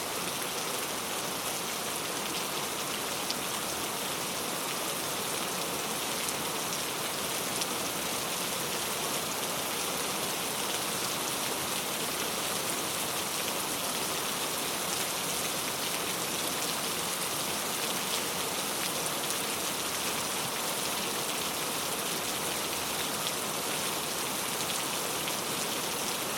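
Steady rainfall, a constant hiss of many small drops pattering on a surface with faint individual drop ticks, no thunder.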